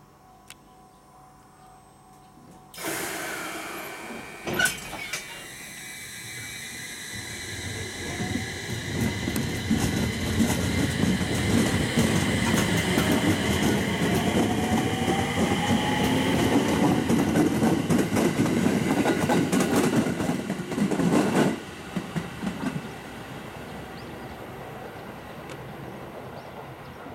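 JR East 701 series electric local train pulling away from the station. The sound begins abruptly about three seconds in. Wheels clatter over the rail joints and the motor whine rises in pitch, growing louder as the cars pass. It drops off sharply as the last car goes by, about 21 seconds in, then runs on more quietly as the train moves away.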